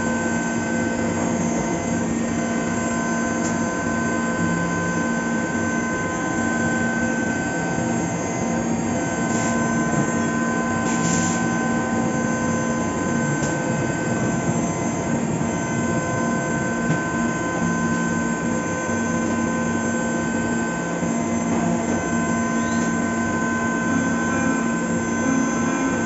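Fagima Jazz M five-axis CNC milling machine running a cut: a steady machine sound of several constant tones over a continuous hiss. A brief higher hiss comes about ten seconds in.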